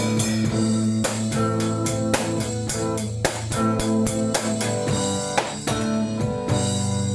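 A live band playing an instrumental song intro: guitar and bass guitar with a drum kit keeping a steady beat.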